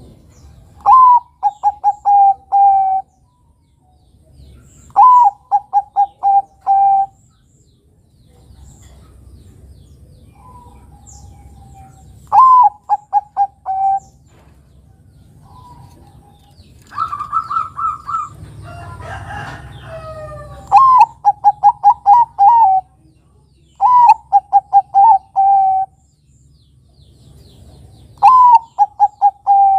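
Zebra dove (perkutut) of the Bangkok type cooing, repeating its song about seven times. Each phrase is a high opening note followed by a quick run of four or five lower, clipped notes, lasting about two seconds. Near the middle a higher run of notes and a jumble of mixed calls break in.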